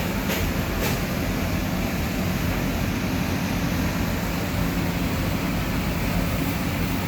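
Steady drone of a running machine, with a low hum under a wide hiss. A few light clicks sound in the first second.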